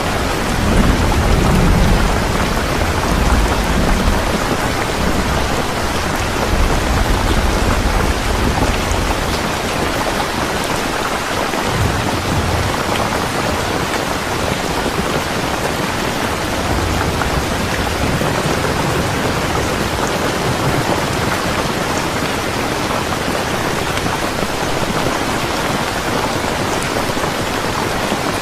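Steady, heavy rain falling, with a low rumble of distant thunder through roughly the first nine seconds and a fainter one again around the middle.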